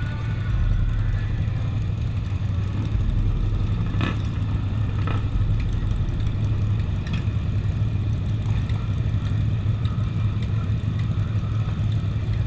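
Suzuki SV650's V-twin engine running steadily, heard from a helmet camera, with a couple of brief clicks about four and five seconds in.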